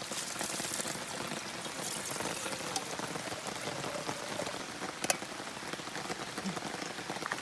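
Steady heavy rain hissing down, with scattered drips and a single sharp tap about five seconds in.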